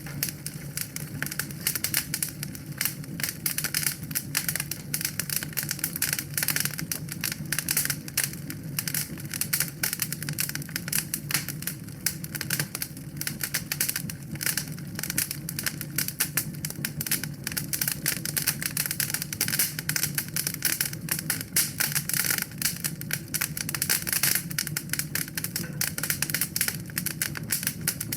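Wood fire crackling in a fireplace: a dense, continuous run of small sharp pops and snaps over a low steady rumble.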